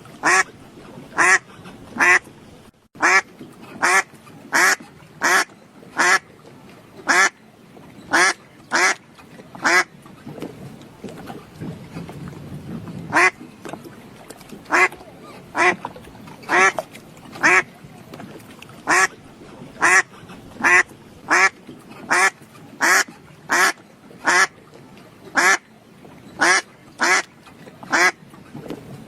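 A duck quacking over and over in short, loud calls, about one to two a second, with a pause of a few seconds near the middle.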